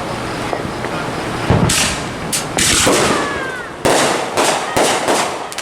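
Fireworks going off: a steady crackling hiss, then from about a second and a half in a rapid run of sharp bangs and crackles, several close together.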